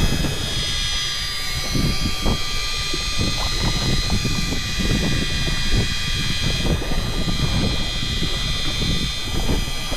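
Boat engine running steadily with a high whine, under rough wind buffeting on the microphone.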